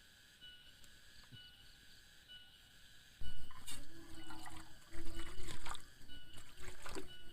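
An insect chirping in short regular pulses, about two a second. From about three seconds in, a much louder spell of water splashing and trickling with clatters, as if water is being poured or handled close by.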